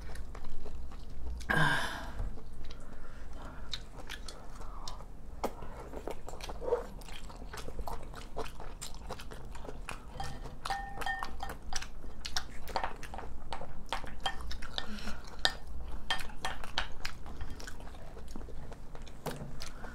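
Close-miked chewing and mouth noises of two people eating spoonfuls of Korean rice bowl, with many small clicks and light taps of a spoon in ceramic bowls. A short louder noise about two seconds in.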